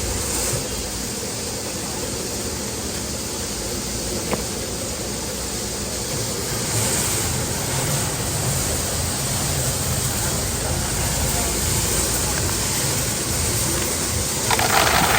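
Steady machinery noise with a low hum, a single sharp click about four seconds in, and a louder hiss near the end.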